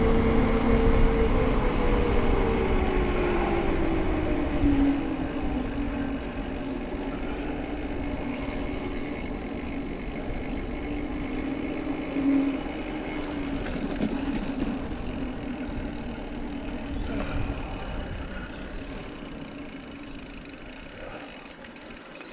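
Mountain bike riding noise: wind buffeting the microphone and tyre rumble, with a humming tone that drops in pitch over the first few seconds and then holds steady while the sound slowly fades.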